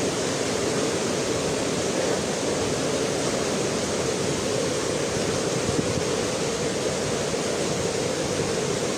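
A flooded, overflowing river rushing past as a steady, even noise of fast water.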